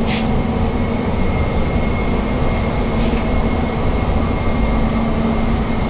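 HVAC equipment in a mechanical room running steadily: a loud drone of air-handler fans and motors, with a low rumble, a steady hum and a faint high whine.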